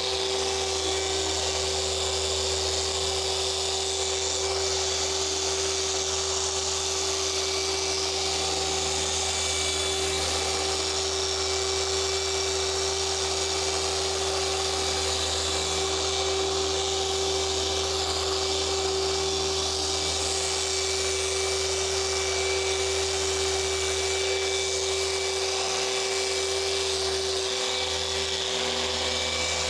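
Orbital paint polisher running steadily at a constant speed, a steady motor whine over a low hum, while correcting swirled car paint.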